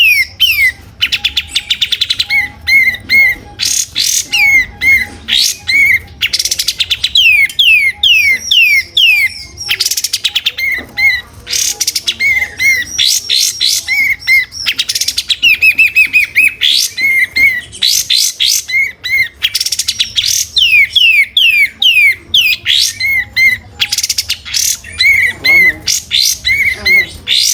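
Kapas tembak songbird singing loudly and almost without pause, in rapid phrases of quick downward-sweeping whistles and fast chattering trills.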